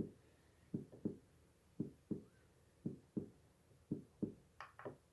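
White noise machine playing its heartbeat sound through its small speaker: faint, soft double thumps (lub-dub), about one beat a second. A few sharper clicks come just before the end.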